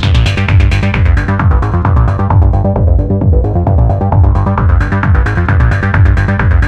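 Electronic trance music played from Launchpad app loops, with a steady pounding beat and heavy bass. The bright top of the sound sweeps down to a muffled middle and then opens back up.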